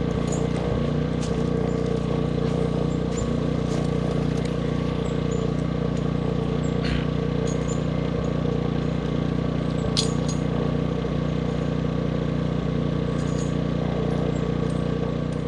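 Gas-powered portable generator engine running steadily with an even hum, with a few faint clicks over it.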